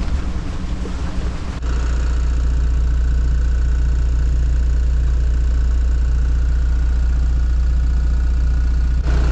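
A sailing yacht's inboard diesel engine running at a steady speed, a loud, even low hum. It takes over abruptly about a second and a half in, after a short stretch of wind and sea noise.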